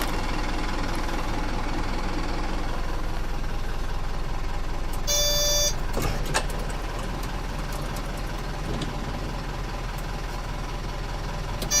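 Toyota Coaster microbus's automatic swing door cycling open and shut, its warning beep sounding twice for about half a second each, with a sharp click about a second after the first beep. The engine idles steadily underneath.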